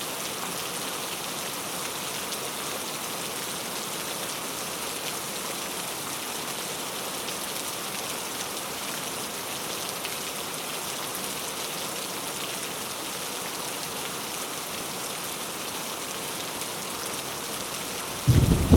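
Steady heavy rain falling, an even hiss of drops without a break. Right at the end a sudden, loud, low rumble of thunder breaks in.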